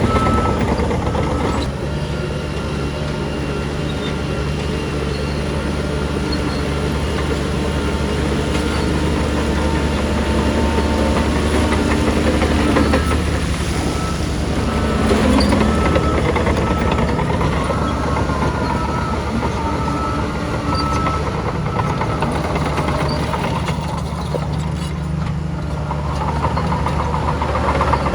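Heavy diesel earthmoving machinery running steadily, a deep engine drone with some higher metallic squeals coming and going.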